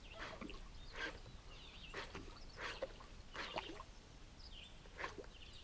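Faint bird calls: short chirps repeating roughly once a second.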